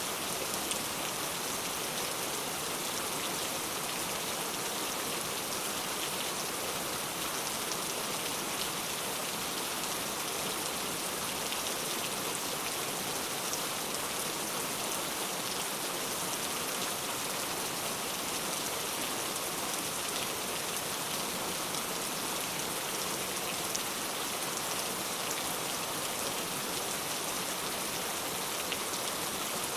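Heavy rain falling steadily: an even hiss with fine scattered drop ticks.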